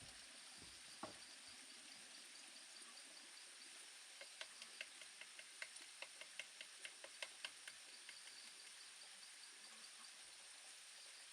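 Quiet forest ambience: a steady high insect drone with faint, evenly repeated chirping. In the middle comes a run of about fifteen light ticks, roughly four a second.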